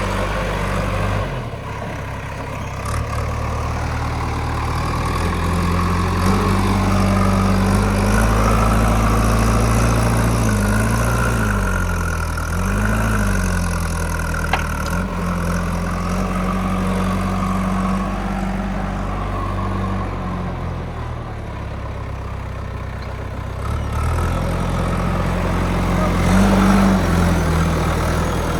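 JCB 3DX backhoe loader's diesel engine running under working load, its revs stepping up and down as the hydraulics dig and swing. There is a single sharp click about halfway through.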